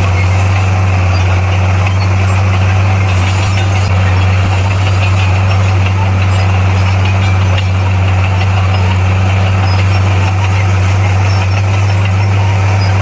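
A bulldozer's heavy diesel engine running steadily, a deep unchanging hum with no revving.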